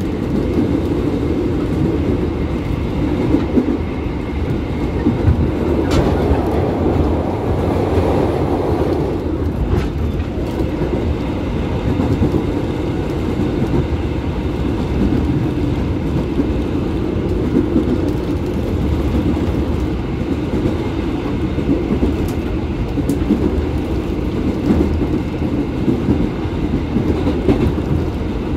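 Electric commuter train running at speed, heard from inside the carriage: a steady rumble of wheels on the rails, with a couple of sharper knocks about six and ten seconds in.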